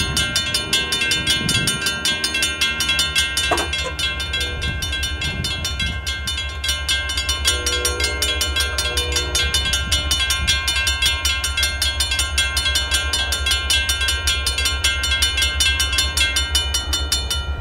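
A train passing at close range: a steady low rumble under a rapid, evenly repeating metallic ringing that runs throughout, with brief pitched tones near the start and again about halfway through.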